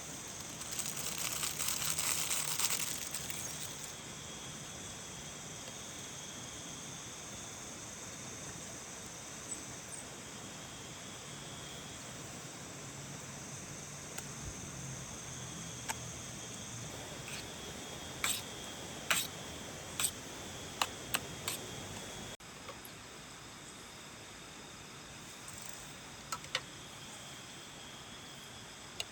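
Steady rain hiss with insects trilling in high, steady tones that fade in and out. A louder rustling swell comes about a second in, and a run of sharp clicks or taps falls about two-thirds of the way through.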